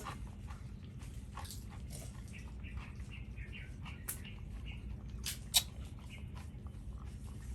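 Dogs eating: scattered chewing and crunching clicks, with one sharp click about five and a half seconds in.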